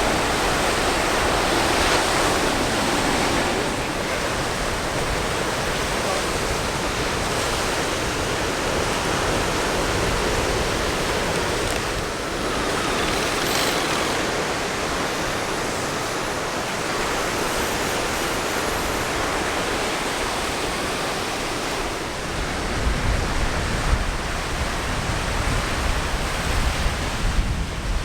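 Steady outdoor rushing noise with no pitch. From about 22 seconds in, a low, uneven rumble joins it.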